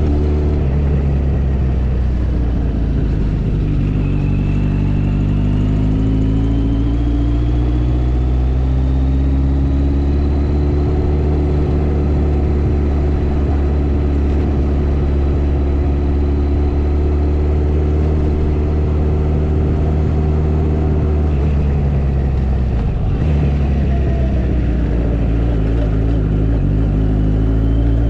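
Motorcycle engine running while riding. Its pitch climbs over the first ten seconds or so, holds steady, drops briefly a little past twenty seconds, then climbs again near the end.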